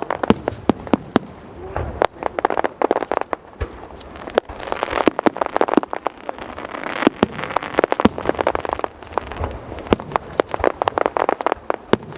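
Aerial fireworks going off: many sharp bangs in quick succession with crackling between them, coming in waves that swell every few seconds.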